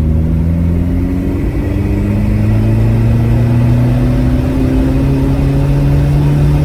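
Seat Leon's 1.9 TDI PD turbo-diesel, fitted with a hybrid 1756 turbo, accelerating hard under full load in third gear, its engine note rising steadily in pitch as the revs climb.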